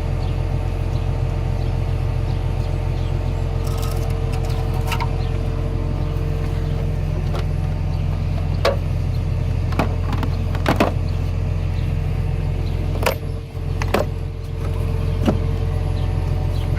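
An engine running steadily at idle, a constant low drone, with scattered sharp clicks and knocks over it.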